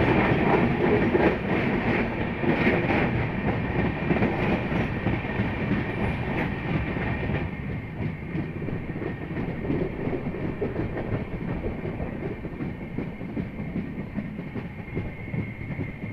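Mumbai suburban electric local train running, heard from an open doorway: a loud rumble and clatter of wheels on track, with a steady high whine. It is loud and echoing in the tunnel, then drops to a quieter rumble about halfway through as the train comes out into the open.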